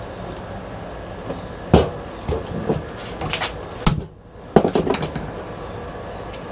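Metal parts of a ceiling fan knocking and clanking as they are handled during scrap disassembly. There are sharp hits about two seconds in and again near four seconds, then a quick run of clanks just after.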